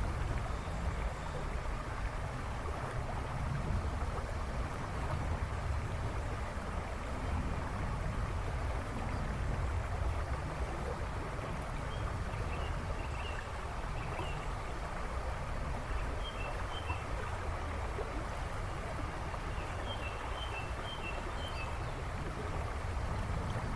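A river rushing and babbling in a steady, even wash of water noise. Birds chirp faintly in the background in a few short clusters in the second half.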